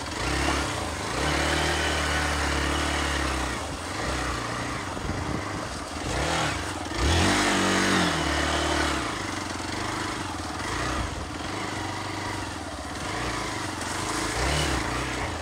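Hero Xpulse motorcycle's single-cylinder engine pulling the bike through rough, grassy terrain, its revs rising and easing with the throttle, with a sharp rev-up about seven seconds in.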